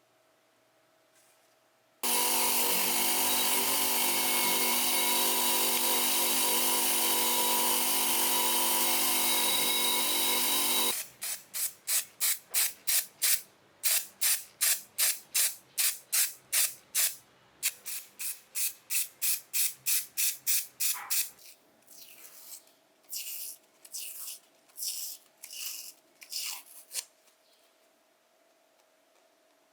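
A power tool runs steadily for about nine seconds, then gives a long run of short, sharp bursts about two a second, followed by a few scattered, quieter bursts.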